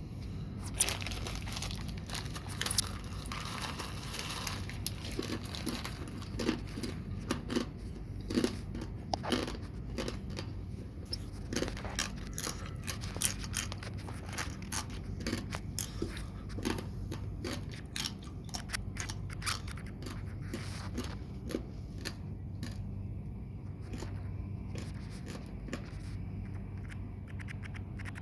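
Close crunching of keripik chips being eaten and handled: irregular sharp crackles, thickest in the first half, over a low steady hum.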